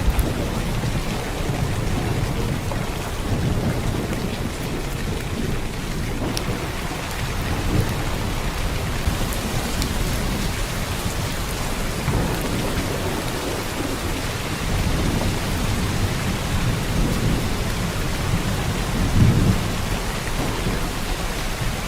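Heavy downpour of rain, a steady hiss, with low rumbles of thunder swelling and fading underneath, the loudest about nineteen seconds in.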